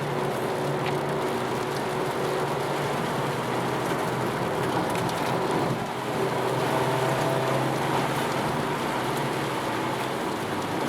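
Mazda Miata's four-cylinder engine running steadily under load, with a constant hiss of rain and wet-road spray; the engine dips briefly about halfway through, then picks up again.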